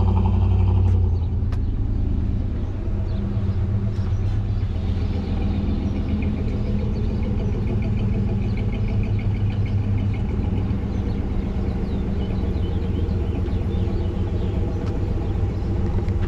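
Vehicle engine running with a steady low rumble, somewhat louder in the first second.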